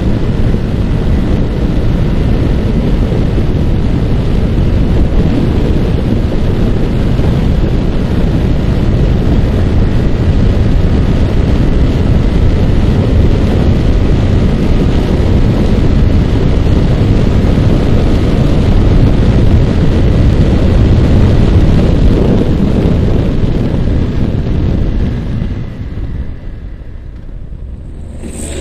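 Heavy wind buffeting the microphone while riding a Yamaha R15 motorcycle, with its single-cylinder engine running steadily underneath. About 25 seconds in the rush drops away noticeably, and a sharp click comes right at the end.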